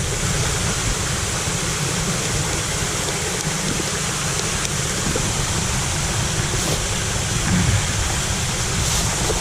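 Waterfall and stream: a steady rush of falling water.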